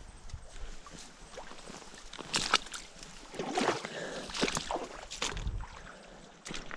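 Footsteps sloshing through shallow creek water and mud, with a series of irregular splashes and crunches bunched in the middle.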